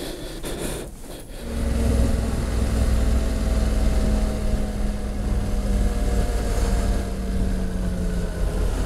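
Honda Africa Twin's parallel-twin engine running steadily under way, heard from the rider's seat. It comes in suddenly about a second and a half in.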